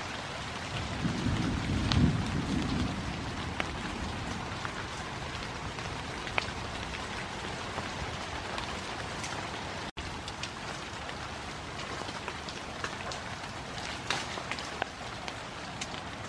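Steady rain pattering on grass and leaves, with scattered drop clicks. A brief low rumble comes about a second in.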